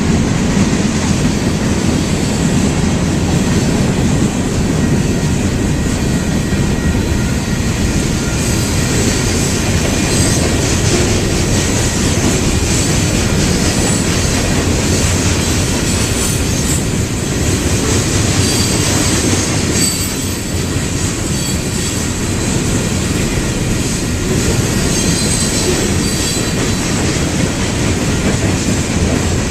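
Freight train cars rolling past: a steady, loud rumble of steel wheels on rail, with faint high-pitched wheel squeals now and then.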